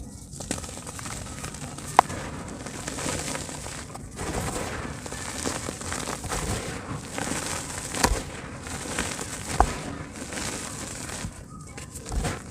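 Soft dirt chunks crumbling and breaking up in water: a continuous fine crackling with a few sharp clicks, the loudest about two seconds in.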